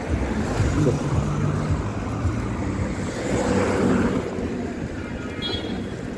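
Road traffic going by, with a car passing about three to four seconds in, under strong wind buffeting the microphone.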